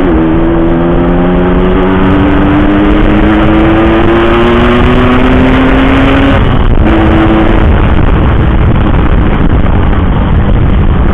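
Yamaha RX-King's two-stroke single-cylinder engine pulling through a gear, its pitch climbing slowly. About six seconds in the tone breaks off as the throttle closes, comes back briefly, and then gives way to a steady rush of wind and road noise.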